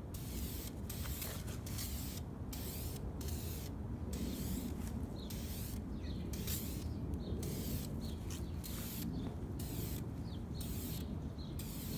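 Aerosol can of acrylic clear coat spraying in a series of short hissing bursts, about one a second, with brief pauses between passes, over a steady low rumble.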